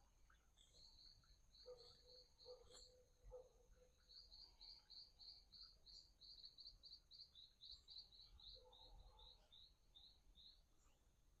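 Faint birdsong: long runs of short high chirps, about three or four a second, with a few lower notes in between and a steady thin high tone underneath.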